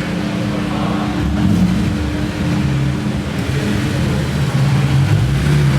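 Car engines running at low revs as cars roll slowly past, a steady engine hum.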